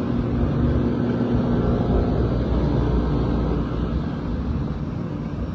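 Rooftop HVAC unit running: a steady low mechanical drone with a constant hum, its level easing slightly near the end.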